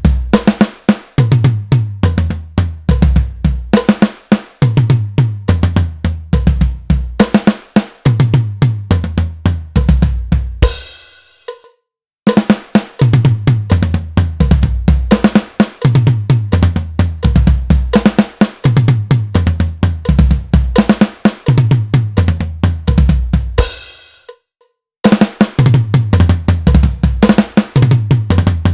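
Drum kit played in an eighth-note triplet feel, with snare and floor tom hit together and a bass drum kick between each unison hit. Twice the playing stops on a ringing cymbal that fades to silence, then starts again.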